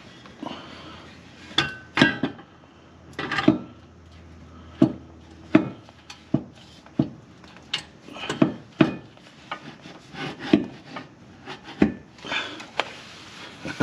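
Irregular clanks and knocks of metal exhaust pipe and muffler pieces being handled and test-fitted, with some scraping between the knocks.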